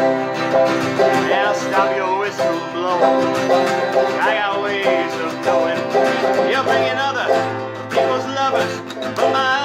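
Instrumental break of a country song: a banjo picking over a strummed acoustic string accompaniment.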